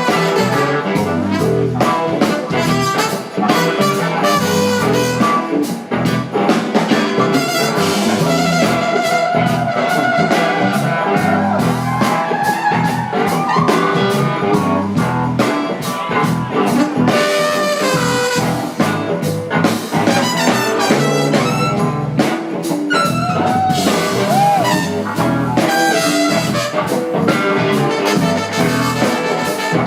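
Live blues-rock band playing an instrumental passage, with a brass horn line out front over the full band.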